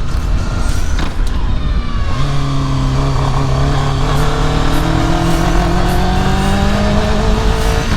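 Yamaha YZF600R's inline-four engine pulling under way, its pitch rising slowly from about two seconds in, over heavy wind rumble on the microphone. The bike is losing power, which the rider takes for running out of gas.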